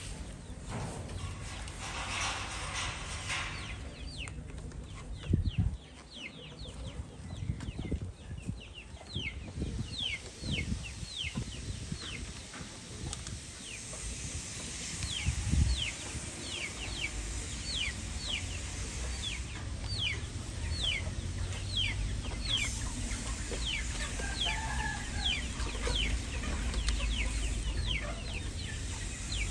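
Birds chirping: many short, falling chirps repeating, denser in the second half, over a low rumble, with a couple of dull thumps about five and fifteen seconds in.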